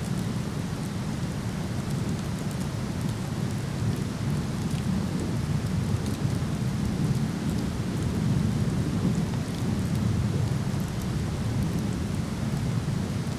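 Steady low rushing of a waterfall, with faint scattered crackles from a wood fire.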